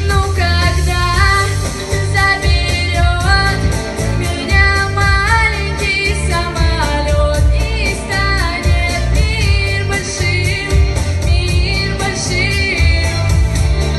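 A female voice singing a sung melody with gliding notes over a backing track with a steady low bass beat.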